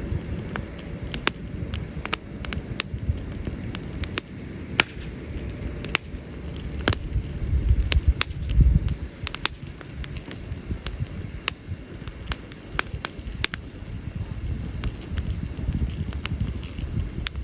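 Wood campfire crackling, with irregular sharp pops and snaps from the burning logs over a low rumble. The rumble swells briefly about eight seconds in.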